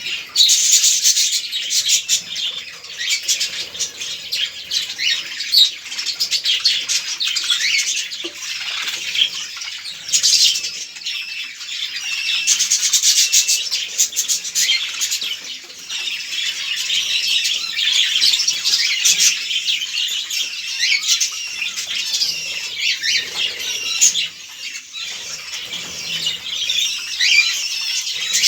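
A flock of budgerigars chattering and chirping without pause: many overlapping warbles and short calls at once.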